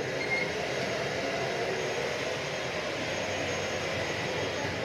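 Jet aircraft turbine running steadily: an even rush with a faint high whine, no change in pitch.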